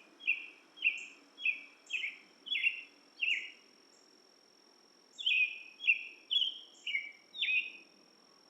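A songbird singing two phrases of repeated downward-slurred notes, about two notes a second, with a pause of about a second and a half between the phrases. A steady high insect drone runs underneath.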